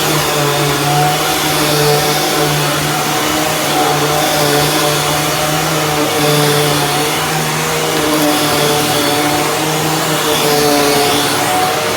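Dirt Devil Ultra Vision Turbo upright vacuum cleaner running steadily on carpet, a loud motor hum over a rushing hiss, its pitch wavering slightly as it is pushed along.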